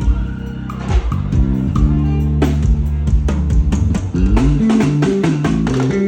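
Live band playing an instrumental passage: a busy bass guitar line stepping through quick low notes over drum hits.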